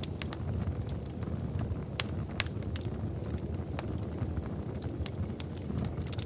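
Wood fire in a fireplace crackling: irregular sharp pops and snaps over a steady low rumble of the flames, with a couple of louder pops about two seconds in.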